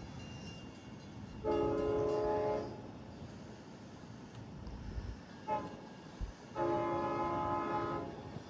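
Train horn sounding a chord in two long blasts with a brief toot between them, as for a grade-crossing signal.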